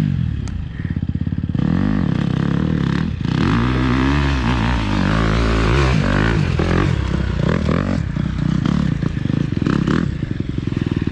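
Dirt bike engine running under load on a trail climb, revving up and down repeatedly as the throttle is worked, then holding steadier near the end.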